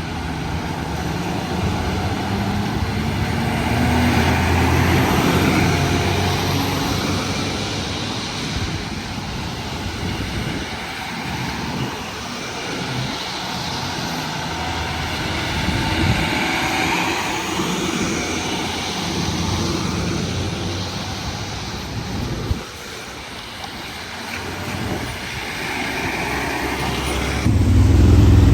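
Trucks in a convoy driving past: engine and tyre noise swelling and fading as vehicles go by, with abrupt changes near the end.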